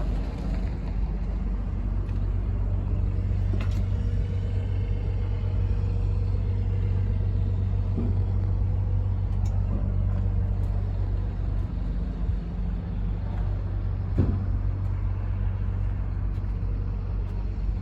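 Diesel engine of a 2014 Western Star 4700 heavy truck idling steadily with a low rumble.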